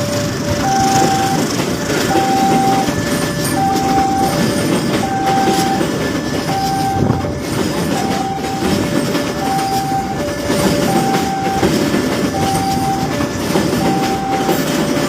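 A train passing close by, its wheels clattering over the rail joints under a steady rumble. Above it, a two-note electronic signal keeps alternating high and low, one pair about every second and a half.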